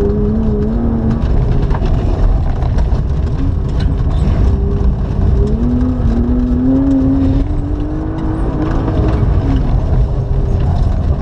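BMW E36's engine heard from inside the cabin, driven hard on a loose gravel track: the revs drop about a second in, then climb steadily for a couple of seconds before easing off again. Underneath runs a heavy rumble of tyres on gravel.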